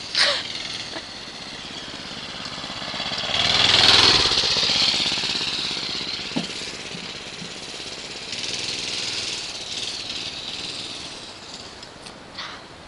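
Small dirt bike engine buzzing at high revs, growing to its loudest about four seconds in and then slowly fading, with a second, weaker swell later on. A sharp knock right at the start.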